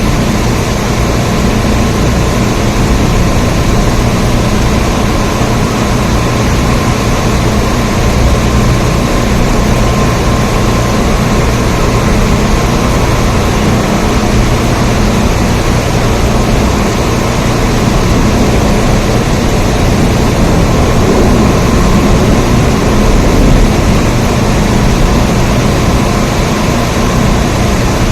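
Steady rain: a loud, even hiss with a deep rumble underneath, unchanging throughout.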